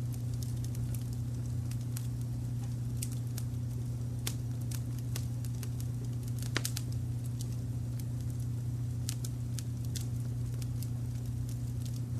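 Wood fire crackling with irregular small pops and one louder pop about halfway through. It sits over a steady low rumble of brown noise.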